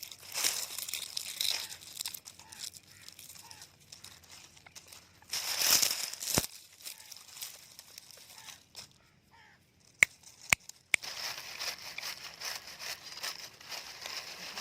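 Rustling and crinkling noises, with a louder burst about five seconds in and three sharp clicks around ten seconds in.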